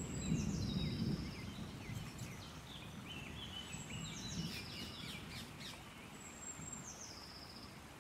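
Faint songbird song: a short high whistled phrase that drops in pitch, repeated about three times with scattered chirps between, over low rustling in the first second.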